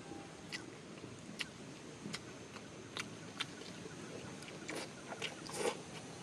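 Scattered wet mouth clicks and smacks of someone biting and chewing a chewy piece of tapioca-dough seblak, over a low steady background hiss.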